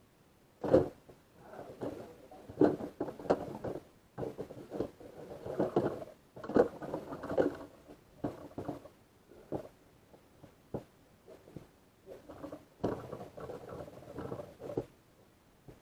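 Irregular clatter and rustling of hard plastic dishwasher parts being handled, with sharp clicks and knocks scattered through, the loudest about a second in and near three seconds in.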